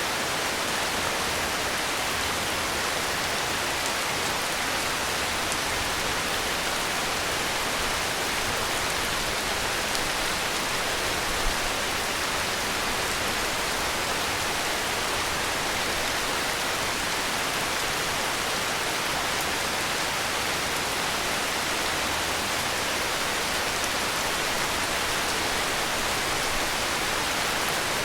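Heavy rain falling steadily, a dense even hiss of drops with no let-up. There is one brief low knock about a third of the way through.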